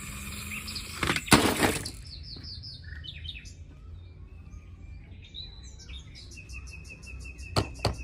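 A loud crash about a second in, followed by bird-like chirping with short rising and falling calls. Near the end there is a steady high whistle and two sharp clicks.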